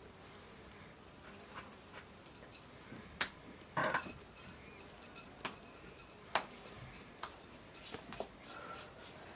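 Kitchenware being handled: scattered light clinks and knocks that begin about two seconds in, with a longer, louder rattle around four seconds.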